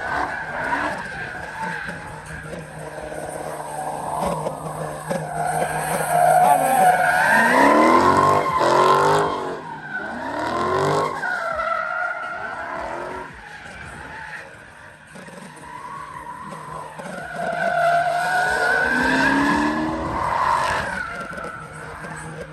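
A car doing a burnout: the engine is revved hard again and again, rising and falling, while the rear tires squeal and screech as they spin. It is loudest about six to nine seconds in, with more rev rises around eleven and nineteen seconds.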